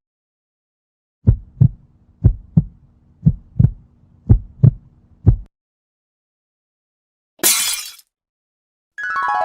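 Heartbeat sound effect: four deep lub-dub double beats about a second apart and one last single beat, over a faint low hum. Later a short hissing burst, and music starts just before the end.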